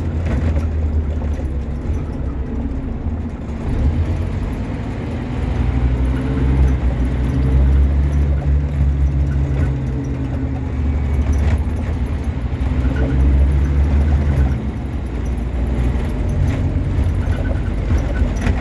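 Scania N230UB OmniCity bus's diesel engine pulling hard, heard from on board: a low engine note that climbs twice as the bus accelerates, then eases off past the middle, with a few knocks and rattles from the bus.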